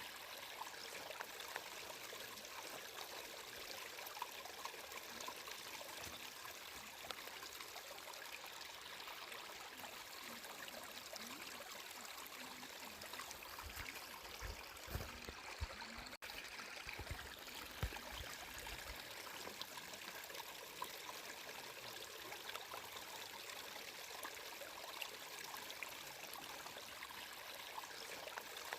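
A stream of water flowing and trickling steadily, with a few low bumps about halfway through.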